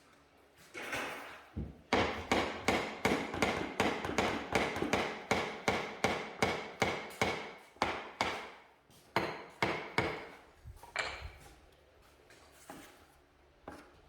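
A hammer striking repeatedly and steadily, about three blows a second for some eight seconds, then a few slower, scattered blows before it stops.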